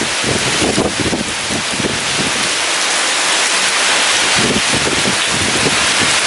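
Heavy rain pouring steadily, with strong wind gusting in uneven surges.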